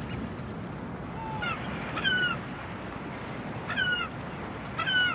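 A bird calling about five times: short, high calls, each dipping slightly in pitch, spaced a second or so apart, over steady background noise.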